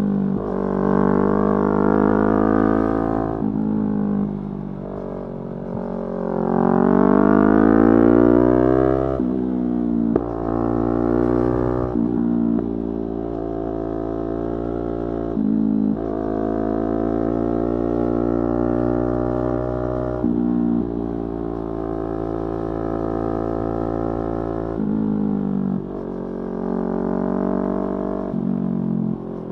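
Yamaha R3's 321 cc parallel-twin engine running under way, its pitch climbing steadily for a few seconds near the start as it revs up. The pitch then drops sharply several times, between stretches of steady running.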